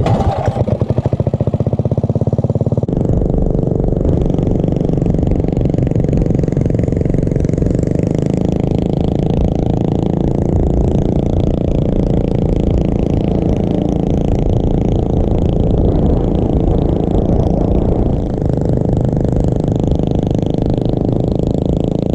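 Mini bike engine running: a fast, even chugging for about the first three seconds, then a steady, louder running sound.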